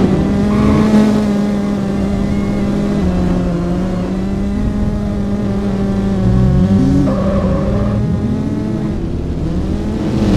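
Car engines running, with revs rising and falling briefly about two-thirds of the way through.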